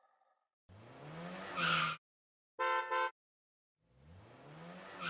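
Car sound effects: an engine revving upward and ending in a tyre screech that cuts off sharply, then two quick horn beeps, then a second rev and screech.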